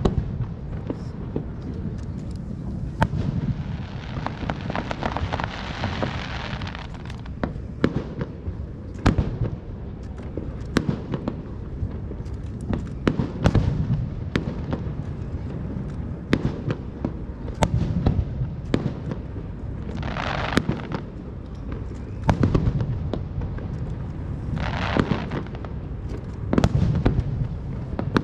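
Fireworks display: aerial shells bursting in a string of sharp bangs over a steady low rumble. There are a few seconds of dense crackling about four seconds in, and short hissing crackles twice later on and again at the very end.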